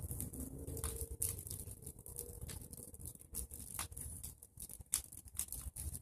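Fire of pruned tree branches and dry leaves crackling, with irregular sharp pops and snaps over a low rumble.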